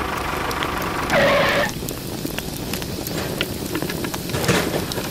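A tractor engine running steadily, broken off at about a second and a half by a short, loud pitched sound. After that come small sharp clicks of plastic toy parts being handled.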